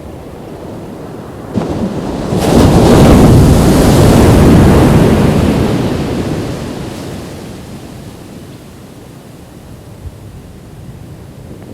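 Ocean wave breaking on a beach: the surf swells about two seconds in, crashes and then washes out and fades over several seconds, leaving the steady hiss of the sea.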